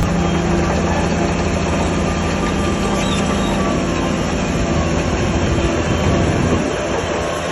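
Heavy diesel earthmoving machinery running steadily, a low engine hum with a few held tones above it.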